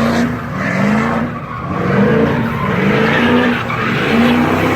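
Truck engine revving while its tyres skid as it spins doughnuts on pavement; the engine note rises and falls over and over.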